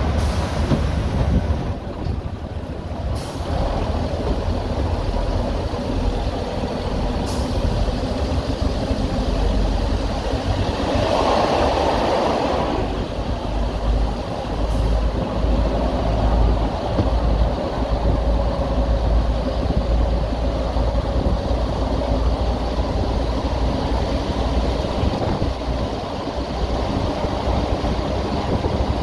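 Heritage railway train running steadily, with a brief hiss in the middle.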